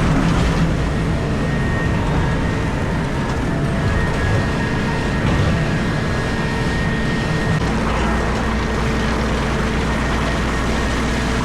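Komatsu PC4000 mining excavator running under work, heard from inside the cab: a steady diesel drone with hydraulic tones, and a deeper hum that sets in about two-thirds of the way through.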